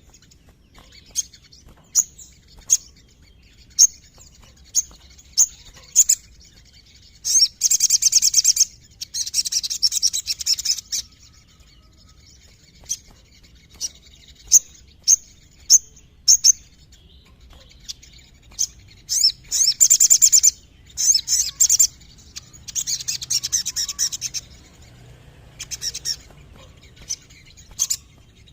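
A sogon songbird singing: single sharp, high chirps spaced a second or so apart, broken by bursts of rapid trilling lasting one to two seconds, about seven, twenty and twenty-three seconds in.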